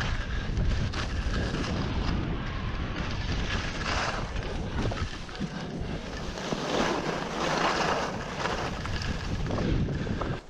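Wind rushing over the microphone of a skier moving downhill, with skis hissing over snow in swells a few seconds apart.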